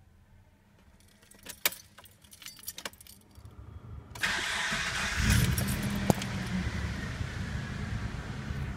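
Keys jangle and click in the ignition of a 1991 Mitsubishi Pajero NH with the 3.0 V6. About four seconds in the starter cranks, the engine catches a second later with a brief flare of revs, and it settles into a steady cold-start idle.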